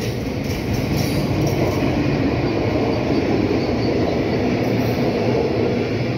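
Double-deck car-transporter freight wagons rolling past on the track: a steady rumble of wheels on rails.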